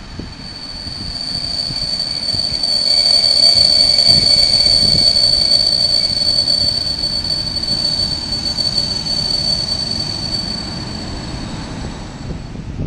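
PKP EP07 electric locomotive hauling passenger coaches, approaching on the station track with a steady high-pitched metallic squeal over the rumble of the wheels on the rails. It grows louder over the first few seconds and then eases off slowly as the train draws close.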